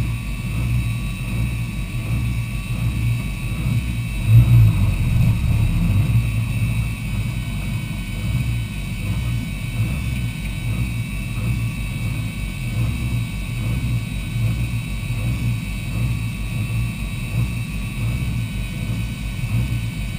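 Lancia Delta Integrale's turbocharged four-cylinder engine idling steadily at a standstill, heard from inside the stripped cabin, with one brief rise in level about four and a half seconds in and a faint steady high whine underneath.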